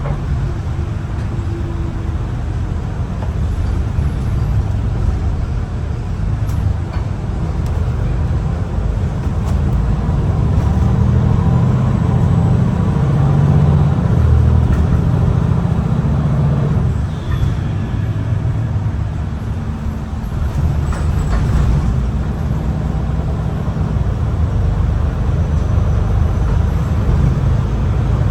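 MAN ND323F double-decker bus's diesel engine heard from on board, pulling under load as the bus drives. It grows louder from about a third of the way in to just past the middle, eases off twice, then builds again.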